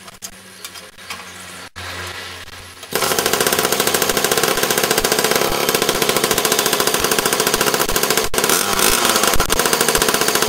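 Small 50cc two-stroke moped engine on a homemade go-kart, running with a fast, loud rattling beat. For the first three seconds there are only faint clicks and a low hum, then the engine sound comes in suddenly and stays loud.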